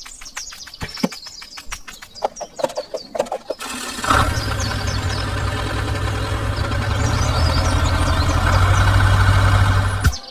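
A series of clicks and taps, then about four seconds in an engine starts and runs steadily, getting slightly louder before it cuts off suddenly near the end.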